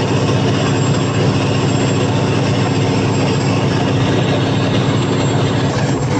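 Cummins KTA50 V16 turbodiesel generator engine running loud and steady at constant speed, on load test after a general overhaul.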